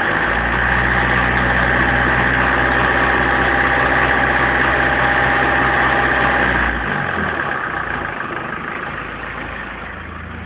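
BMW 318 tds's 1.7-litre four-cylinder turbodiesel held at steady raised revs, then released about two-thirds of the way in, the sound dropping back toward idle.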